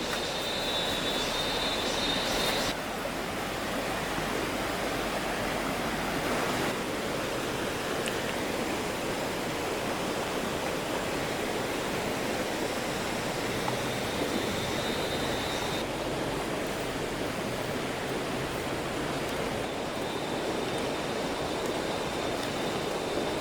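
A steady outdoor rushing noise, of the kind made by flowing water or wind. A faint, thin, high steady tone sounds for the first few seconds and returns briefly later.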